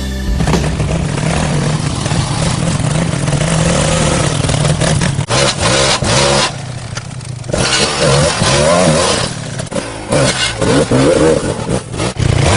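Motorcycle engines running and revving, the pitch rising and falling, with a brief drop in level near the middle.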